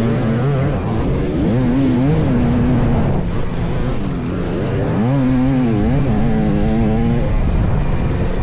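SJ300 300 cc water-cooled two-stroke dirt bike engine being revved, its pitch rising and falling in several blips of the throttle.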